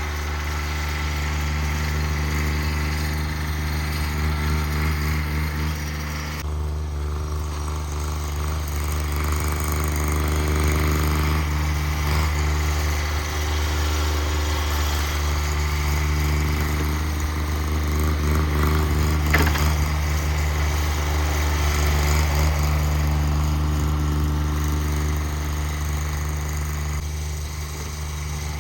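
Cub Cadet 1782 garden tractor's Onan twin-cylinder engine running steadily under load, its level rising and falling a little as it works.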